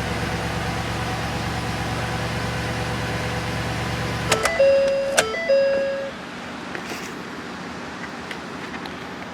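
2015 Ford Super Duty's 6.2 L gas V8 idling steadily, then shut off with a click about four and a half seconds in. As it stops, an electronic chime sounds twice, then it goes quieter.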